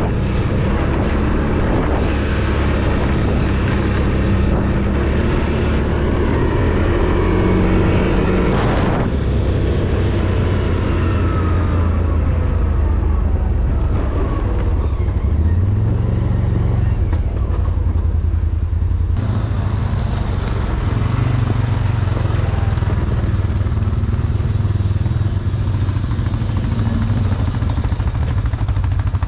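ATV engine running under way, its pitch shifting with throttle and rising once about halfway through, with abrupt changes in sound twice.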